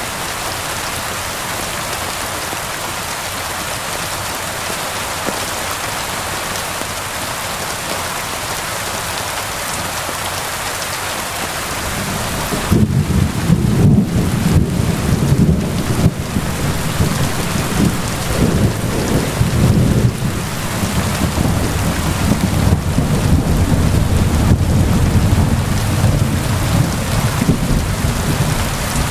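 Steady rain hiss; about twelve seconds in, a deep rolling rumble of thunder comes in over it and keeps on, swelling and easing, to the end.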